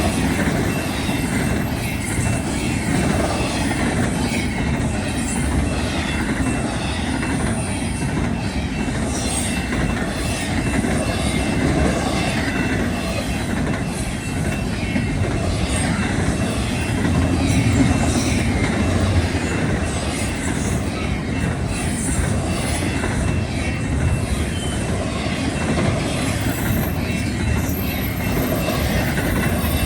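BNSF intermodal container freight train rolling past, a steady rumble of wheels on rail with brief high wheel squeals now and then.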